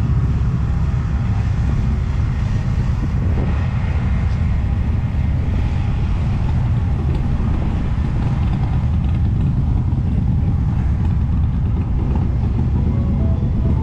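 A group of motorcycles riding in together, their engines running with a steady, loud low rumble.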